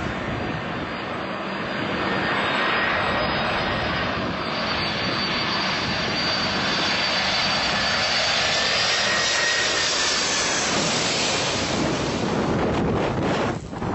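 Large jet airliner's engines: a loud, steady rushing noise with a thin high whine above it. It cuts off sharply near the end.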